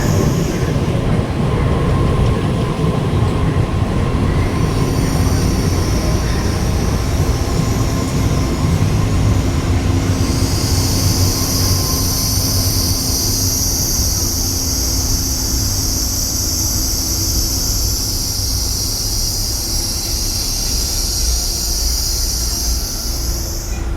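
TRA EMU3000 electric multiple unit rolling through the station with a steady low rumble. About ten seconds in, a loud high-pitched squeal from the running gear sets in and cuts off suddenly near the end.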